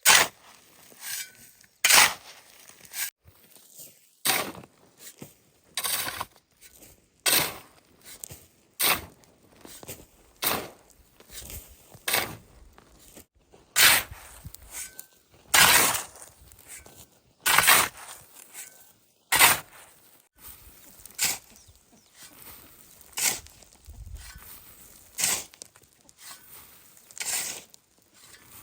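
Repeated strokes of a hand tool scraping and crunching into a cement and gravel mix, about one every one and a half to two seconds.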